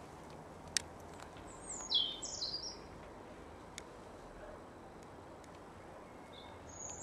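A songbird sings a short high chirping phrase about two seconds in, over a faint steady outdoor background hiss. Two faint clicks come at about one second and four seconds in.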